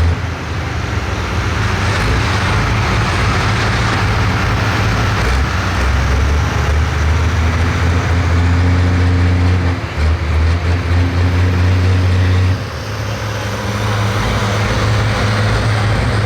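Pro stock pulling tractor's turbocharged diesel engine running hard under load with a loud, steady low drone. The engine note drops about twelve and a half seconds in as it eases off.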